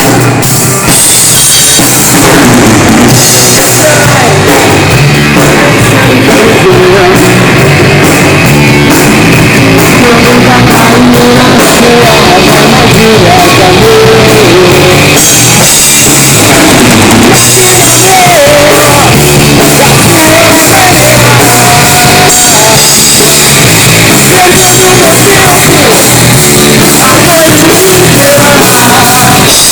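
Rock band playing loud, steady rock music driven by a drum kit.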